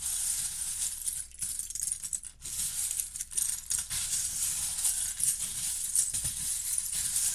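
Small plastic Lego pieces rattling and clattering against each other in a continuous shaking rattle, with a few brief pauses.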